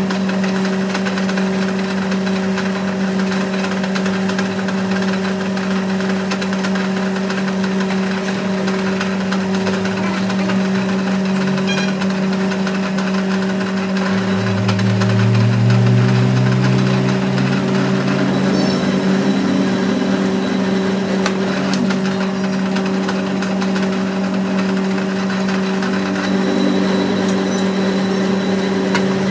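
Workshop machine running with a steady hum. A lower tone swells in about halfway through and fades out a few seconds later.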